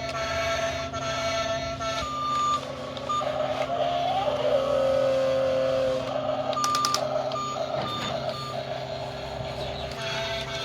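Electronic beeping like a reversing alarm, short tones starting and stopping over a steady hum, typical of a toy JCB construction vehicle's sound effects. Background music plays for the first two seconds and returns near the end.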